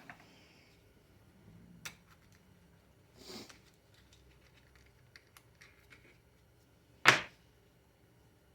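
4L60E transmission input drum and its parts being handled on a bench: scattered light clicks and small knocks, with one louder knock about seven seconds in.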